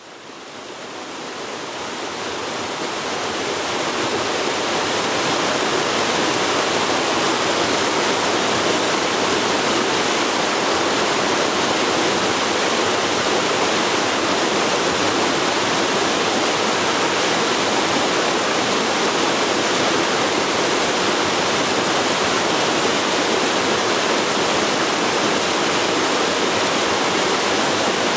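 Forest river rushing steadily over its bed, a continuous even water noise that fades in over the first few seconds.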